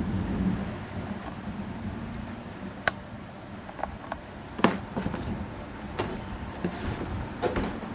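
A low rumble of distant thunder dies away in the first second or so. After it come several sharp, irregular knocks and clicks, roughly one a second, the loudest a little before the middle.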